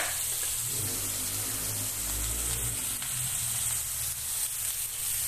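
Sliced onions and tomatoes sizzling steadily in hot oil in an aluminium wok, with a brief click at the start.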